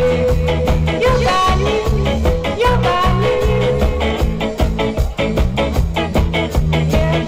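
A live band playing upbeat music with a steady, driving beat and a held melody line over it.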